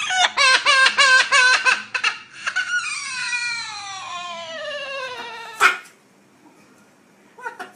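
Parrot mimicking a crying baby: a quick run of sobbing cries, about four a second, then one long falling wail. A sharp click follows just after the wail ends.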